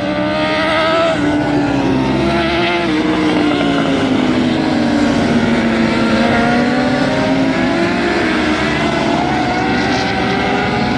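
Several racing superbike engines running hard at high revs, their overlapping pitches sinking over the first few seconds and then climbing again.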